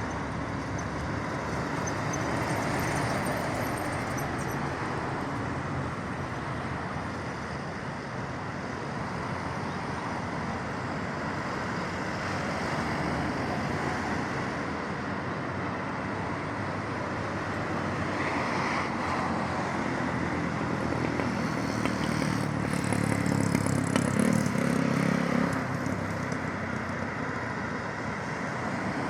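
Road traffic: a steady wash of cars passing on a road, with one louder vehicle's engine going by about three-quarters of the way through.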